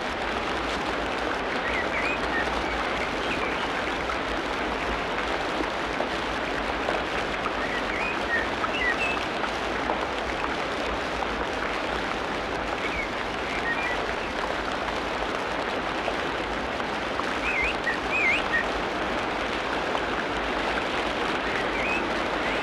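Tropical rainforest ambience: a steady, dense hiss of rain, with short chirping bird calls breaking through now and then, a few of them around the middle and a cluster near the end.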